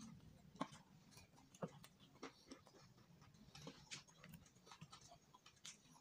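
Faint, irregular wet clicks and smacks of a person chewing a mouthful of food with lips and tongue, a dozen or so short ticks scattered with no steady rhythm.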